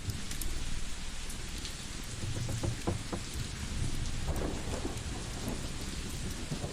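Layered ambience: a wood fire crackling with scattered sharp pops over a steady rain-like hiss and a low, pulsing rumble.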